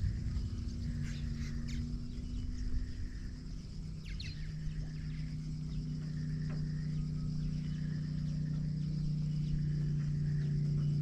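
Steady low hum of a small boat motor, growing slightly louder about halfway through, with birds giving short chirps and calls now and then.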